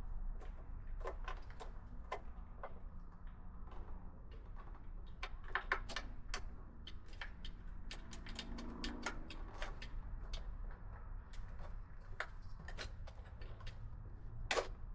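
Irregular light clicks and ticks of a screwdriver and small metal hardware as a motorcycle battery terminal screw is worked loose, coming thicker in the second half.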